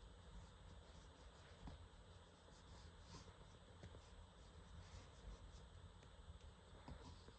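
Faint scratching of a pen on paper in short, quick gesture-drawing strokes, with a few small ticks as the pen touches down.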